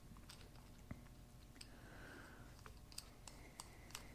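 Faint, scattered clicks of hand tools and metal parts as a fitting is screwed back into a Lucas CAV DPA diesel injection pump, over a low room hum.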